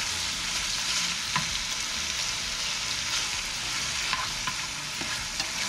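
Chicken and sausage pieces sizzling steadily in a hot pan over high heat, with a few clicks of stirring against the pan.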